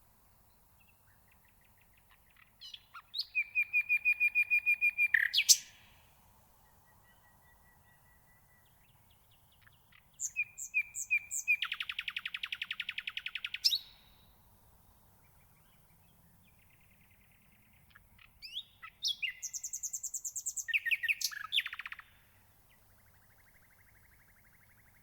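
Common nightingale singing: three loud phrases of rapid repeated notes and trills, each about three seconds long and a few seconds apart, with fainter notes between.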